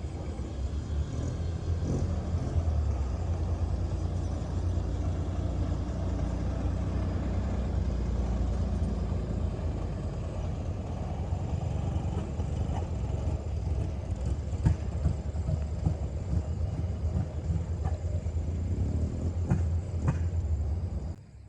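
Jeep engine running steadily with a low rumble, which cuts off abruptly near the end.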